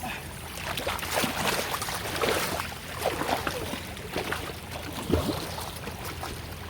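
Shallow floodwater trickling and splashing, with many small irregular splashes as someone wades and gropes in it by hand.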